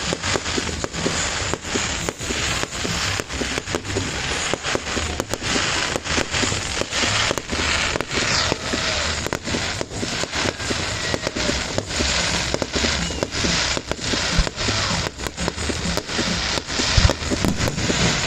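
Fireworks going off in rapid succession: a dense, continuous run of sharp bangs and crackling.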